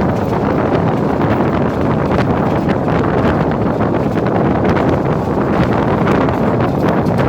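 Passenger train running at speed: a steady rush of wind on the microphone over the rumble of the wheels on the rails, with faint scattered clicks.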